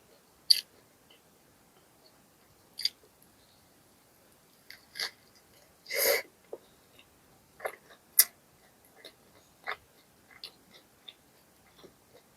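Close-miked eating sounds: a person chewing, with scattered sharp, wet mouth clicks and smacks and one longer, louder noisy sound about six seconds in.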